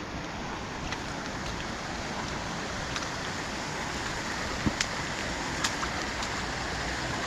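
Steady rush of water from a fast-flowing burn swollen by heavy rain, with a few light ticks about halfway through.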